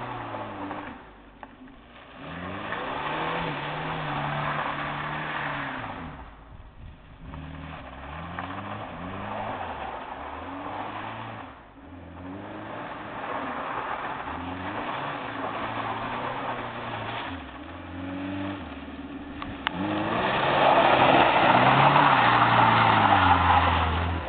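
Ford Taunus engine revved hard again and again in about five surges, its pitch rising and falling, over the hiss of spinning rear tyres during burnouts and donuts. The loudest and longest surge comes near the end.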